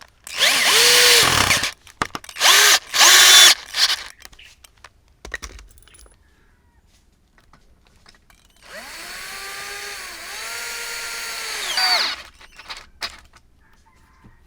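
Electric drill run in three short bursts, its motor whine falling as each burst stops. About nine seconds in comes a longer, quieter run of about three seconds at a steady pitch.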